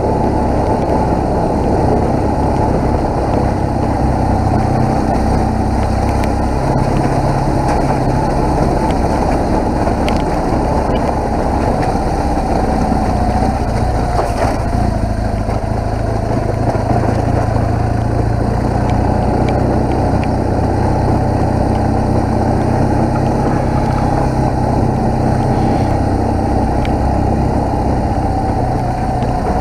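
BMW R1200GS motorcycle engine running while riding, its note shifting up and down a few times with the throttle over a steady rush of noise.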